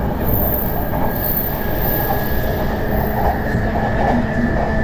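JR E233-0 series electric commuter train running at speed, heard from inside the car: a steady rumble of wheels on rail with a thin high-pitched whine above it.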